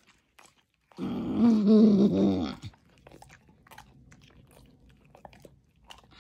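A black labrador chewing apple slices with yoghurt, with scattered crunching and smacking clicks. About a second in, a loud, wavering voiced moan lasts nearly two seconds.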